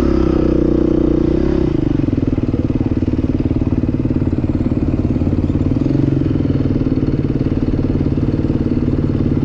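Dirt bike engine running as it is ridden, revs held up for the first couple of seconds, then dropping, with a brief rise again about six seconds in.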